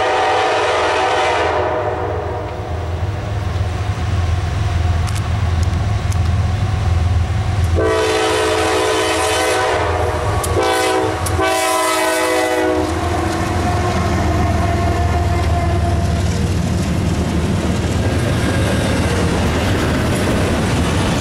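Two long multi-tone blasts of a freight locomotive horn, the first ending about a second and a half in and the second running from about eight to thirteen seconds in with two brief breaks. They sound over the rising rumble of Kansas City Southern's GE diesel locomotives (an AC44CW and an ES44AC) as they pass. After that comes the steady rolling rumble and clatter of double-stack intermodal well cars going by.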